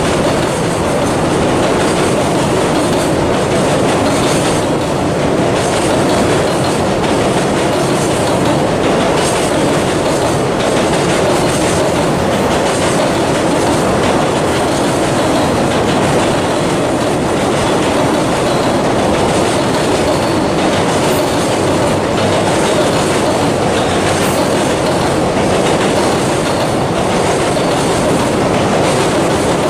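Long freight train rolling past: a steady, loud run of wheels on the rails with a light clickety-clack from the joints.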